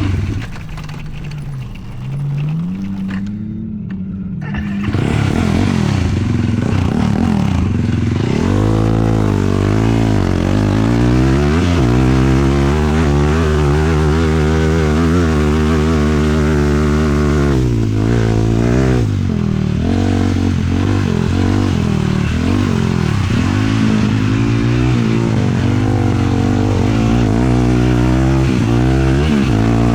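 Sport quad's 450 cc single-cylinder four-stroke engine running under way, its revs climbing and falling again and again. It is quieter for the first few seconds, then pulls up strongly about five seconds in, and briefly backs off a little past halfway.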